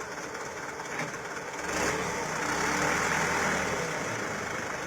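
Mitsubishi Canter 4x4 truck's diesel engine running, revving up under load about two seconds in and holding higher for a couple of seconds before easing back toward idle.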